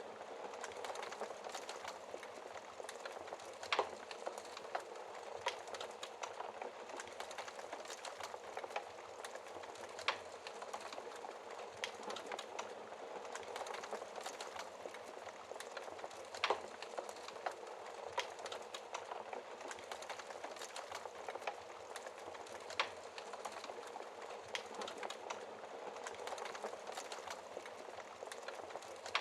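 Fire crackling behind a glass fireplace shield: a steady dense crackle with four louder pops, about six seconds apart.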